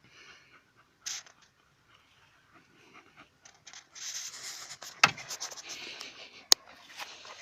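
Two puppies play-fighting: scattered scuffling and scratching, mostly sparse at first, then busier from about four seconds in, with two sharp knocks.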